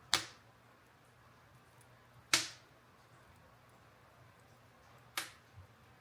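Burning wood in a bonfire popping: three sharp cracks a couple of seconds apart, each dying away quickly.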